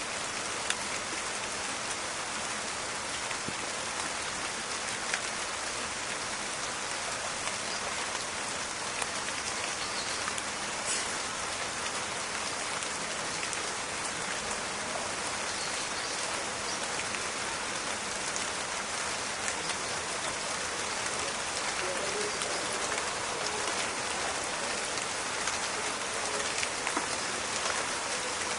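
Steady rain falling on foliage and the ground, a dense even patter with scattered sharper drop ticks.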